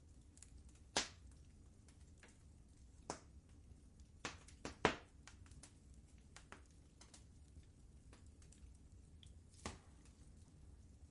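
Fireplace fire crackling: irregular sharp pops and small ticks, the loudest about five seconds in, over a faint low rumble.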